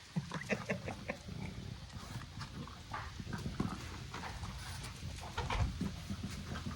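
Pocket American bully dogs moving about in snow, making a run of short, irregular sounds.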